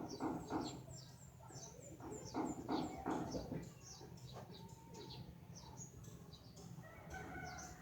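Small birds chirping: many short, high, falling chirps in quick succession, with louder, lower chattering bursts in the first half.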